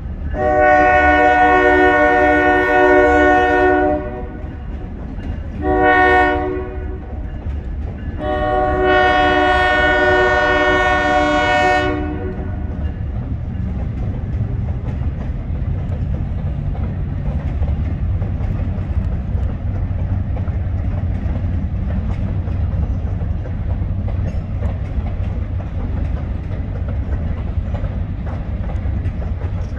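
Juniata Valley Railroad locomotive #2106's multi-note air horn sounding a long blast, a short one and another long one for the grade crossing. After about twelve seconds the horn stops and a steady low rumble and rattle of freight cars rolling past carries on.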